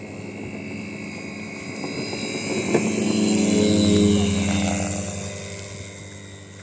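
Radio-controlled model C-160 transport plane flying past, the drone of its propellers swelling to a peak about four seconds in and fading as it moves away.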